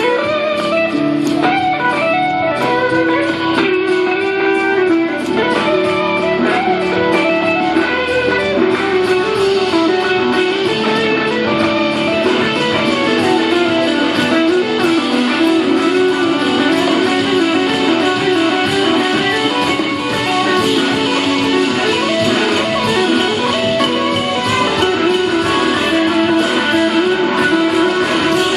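Blues-rock band playing live, with electric guitar out front over a steady, unbroken band sound.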